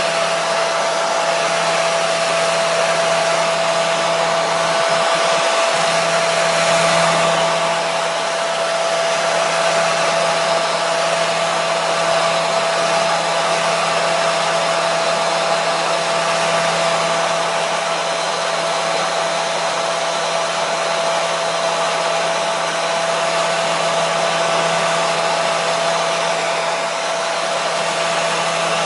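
Hair dryer running steadily: a constant rush of blown air with a steady whine and a low hum underneath, unchanging throughout.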